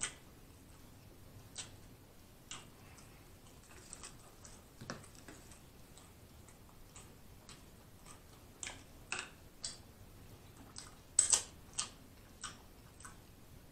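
Close-miked chewing of a steak taco: irregular short, wet mouth clicks and smacks, with a louder cluster about eleven seconds in.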